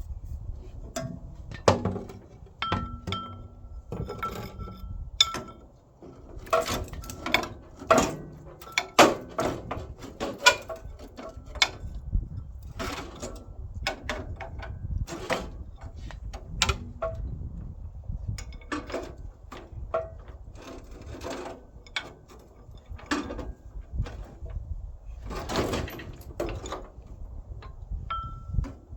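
Irregular metallic clanks, knocks and rattles of tools and metal parts being handled, the loudest about nine seconds in.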